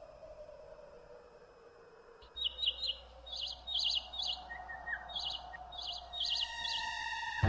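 Birds chirping in short, quick phrases repeated every half-second or so, over a faint low steady drone. Near the end a soft sustained musical tone swells in.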